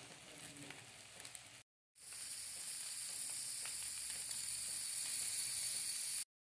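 Chicken and bell pepper pieces frying in butter in a non-stick pan: a sizzle with small crackles, which drops out briefly about a second and a half in, comes back louder and steadier, and cuts off abruptly near the end.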